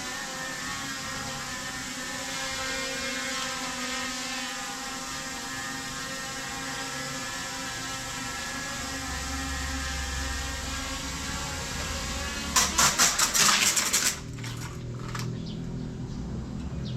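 Small toy quadcopter drone's propellers whirring steadily in flight. About twelve seconds in comes a quick run of loud clattering knocks, then the motors stop.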